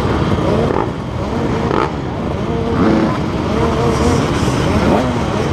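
Motocross bike engines running and revving up and down, over a heavy low rumble.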